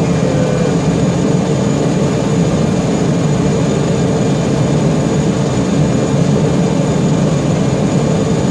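Grumman Mallard amphibian's port engine running steadily after start, an even drone with a faint high whine above it.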